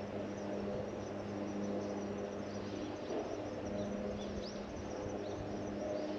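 Outdoor ambience: a steady low mechanical hum from a distant engine, with a few faint bird chirps over it.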